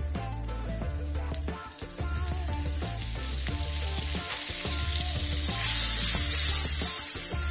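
Spiced onion masala sizzling in hot oil in a steel kadhai as yogurt is added and stirred in with a metal spatula; the sizzle grows louder about five and a half seconds in. Background music plays underneath.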